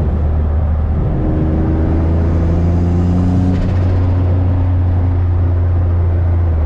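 Turbocharged Infiniti G35's VQ35 V6 engine running at a steady light cruise: a loud, even low drone with faint tones above it that shift slowly in pitch.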